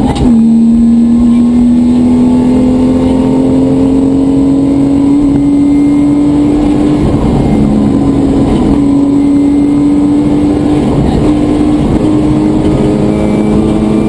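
Rally car's engine heard loud from inside the cabin under hard acceleration. There is a quick gear change right at the start, and the engine note then climbs slowly with a further shift about two-thirds of the way through.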